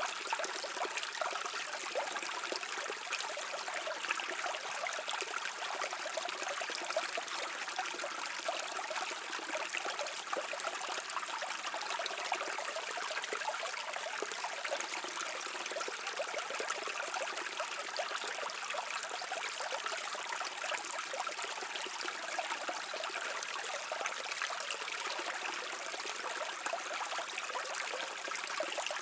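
Small stream flowing over rocks: a steady babbling and trickling of running water.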